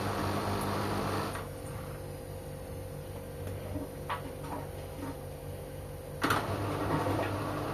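LG washing machine mid-cycle: the drum's motor and tumbling stop about a second in, leaving a quieter hum with faint ticks, then restart with a sharp click a few seconds later. This is the usual pause and restart of a washer's wash motion.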